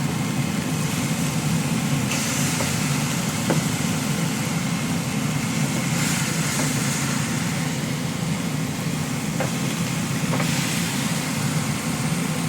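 A steady low mechanical hum, with a hiss above it that swells three times.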